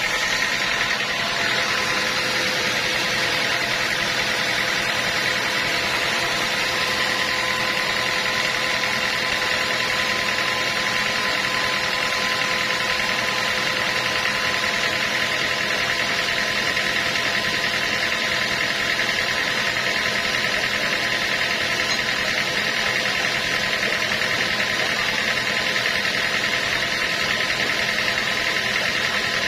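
Sawmill machinery running steadily: an even mechanical drone with a constant high whine, unchanging throughout.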